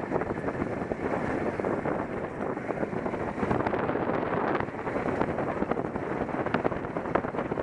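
Wind buffeting a camera microphone on a motorcycle riding at speed, a steady rushing noise with constant crackling gusts, with the bike's running engine and road noise beneath.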